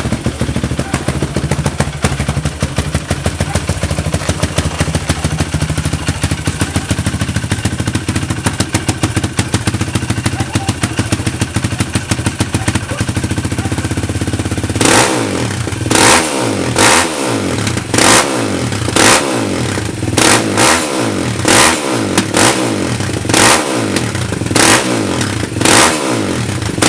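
Four-wheeler engine idling loudly with a fast, even exhaust patter. About halfway through it is blipped hard and repeatedly, roughly once a second, each rev rising and dropping back.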